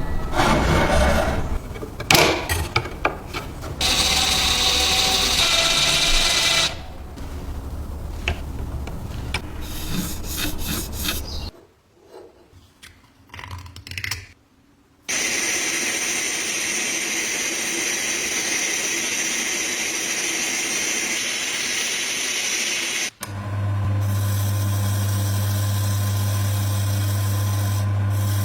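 Power tools at work in several short segments that cut from one to the next: irregular working noise, then a steady hiss, then a steady motor with a strong low hum.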